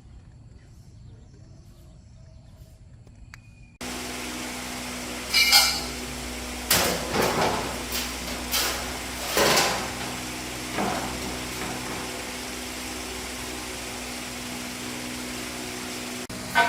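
Several sharp metal knocks and clanks of hand tools against metal, over a steady machine hum that starts abruptly a few seconds in.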